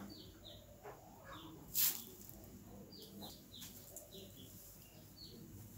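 Small birds chirping repeatedly: short, high chirps that slide downward, coming irregularly and quite faintly. A brief hiss sounds once about two seconds in.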